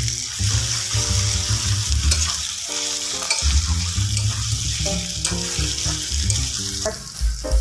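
Sliced onions and ginger paste sizzling in hot oil in a steel wok, stirred and scraped with a metal spatula, over background music.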